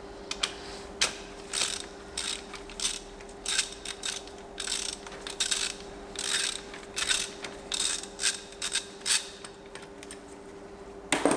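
Ratchet wrench clicking in short repeated strokes as bolts are undone, over a steady hum, with a sharp clank near the end.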